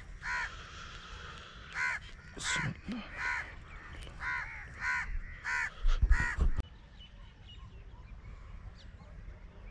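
A bird calling over and over, about nine short calls in quick succession. The calls stop after about six and a half seconds, around the time of a deep knock of handling noise.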